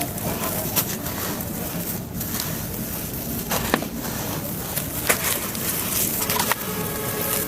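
Dry, gritty brown cement crumble breaking up onto cement paste: continuous crunchy crackling with scattered sharp clicks.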